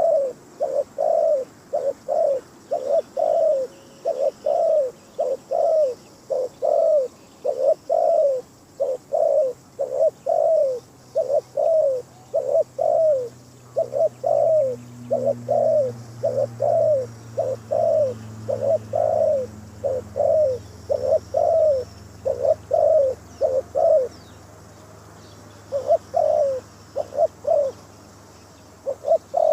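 Spotted dove cooing in a quick, steady run of short coo notes, a little over one a second. It breaks off for about two seconds near the end, then starts again.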